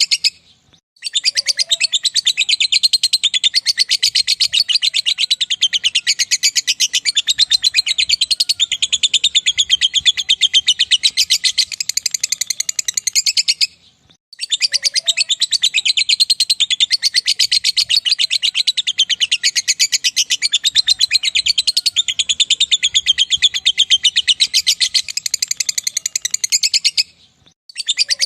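Lovebird ngekek: a long, very rapid, high-pitched chattering trill. It comes in two unbroken bouts of about thirteen seconds each, parted by a short pause about halfway through, and it starts again just before the end.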